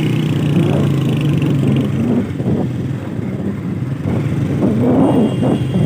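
Motorcycle engine running as the bike is ridden, a steady note for the first two seconds and then more uneven.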